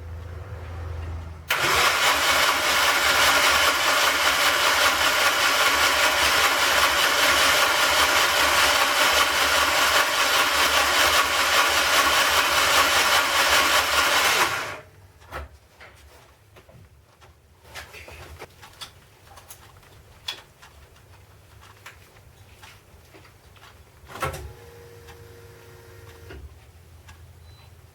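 Freshly built Mazda BP-ZE four-cylinder, bored out to 1997 cc, turning over on its starter for about thirteen seconds at its first start, then stopping abruptly. Scattered faint clicks follow.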